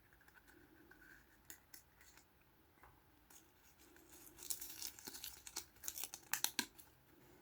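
Packaging being opened by hand: a few light clicks and rustles, then from about halfway through a run of sharp crinkling and tearing of a wrapper.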